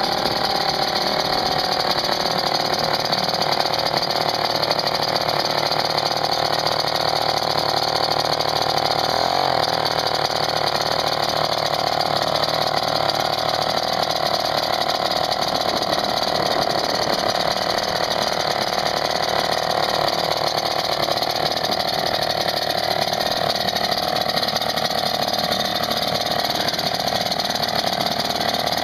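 Old British Seagull 102 single-cylinder two-stroke outboard motor running steadily.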